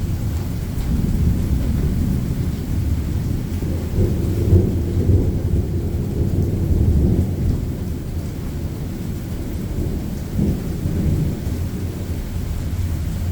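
Rolling thunder rumbling low through a thunderstorm, swelling loudest about four seconds in and rising again briefly near the end, over a steady hiss of rain.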